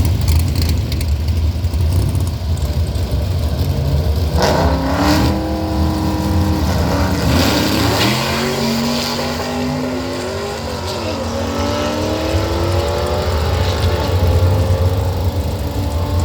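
Drag-racing engines accelerating hard down the strip. The engine pitch climbs and drops back at each gear shift, starting about four seconds in and still climbing near the end, over a steady low engine rumble.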